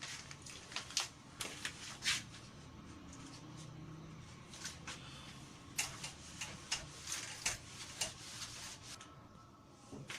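Pen strokes scratching on paper while notes are written: irregular short scratches and light taps with brief rustles.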